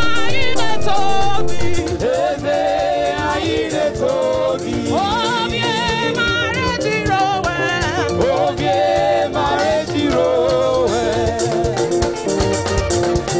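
Live gospel praise music: singing in a wavering melody over held chords, with steady shaker-like percussion.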